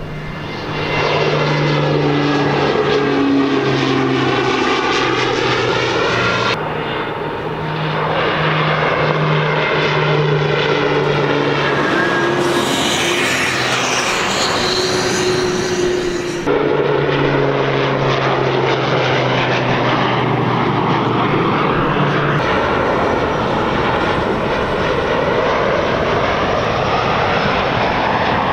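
Firefighting aircraft flying low, engines droning steadily with a tone that sweeps slowly as they pass. The sound changes abruptly twice.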